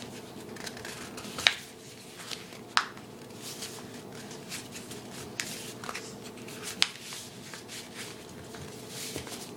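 A sheet of paper being folded by hand: soft rustling with scattered sharp crackles as the corners are folded down and creased flat.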